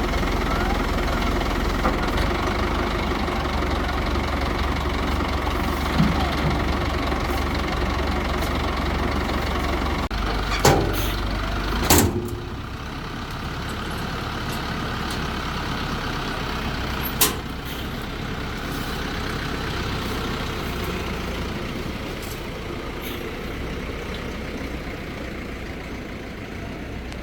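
A crane's engine running steadily, with a few sharp knocks at intervals. The engine sound settles a little lower about twelve seconds in.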